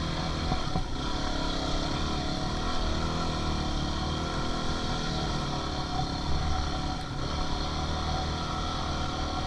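Dirt bike engine running steadily while riding, its pitch rising and falling gently with the throttle.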